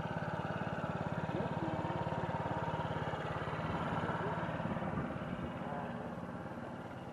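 A motor vehicle's engine running steadily with a fast, even pulse, fading over the last two seconds.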